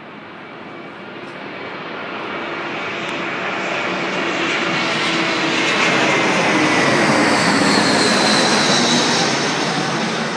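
Airplane flying overhead. Its engine noise swells for several seconds, peaks about two-thirds of the way through, and begins to fade near the end, with a whine that falls slowly in pitch as it passes.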